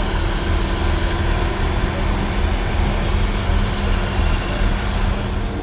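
Steady rumble of a heavy vehicle's engine running, with a constant low hum.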